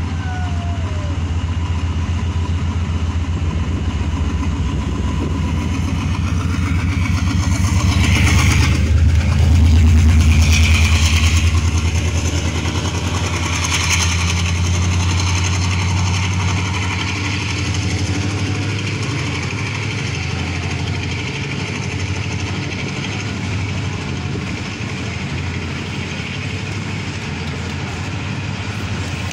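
Diesel locomotive engine running under throttle, a deep, steady drone that builds to its loudest about ten seconds in, with a rushing, hissy layer over it, then settles back to a steady, slightly quieter run.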